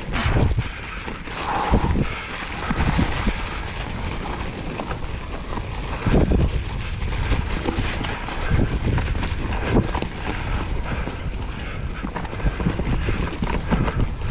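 E-mountain bike riding over a rough woodland trail: tyres rolling on dirt and stones with repeated knocks and thumps from bumps, and wind buffeting the microphone.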